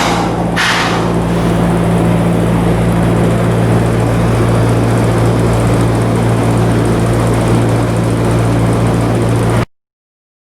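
A machine running steadily with a low, constant hum over a broad noise, with a short burst of hiss at the very start; the sound cuts off abruptly near the end.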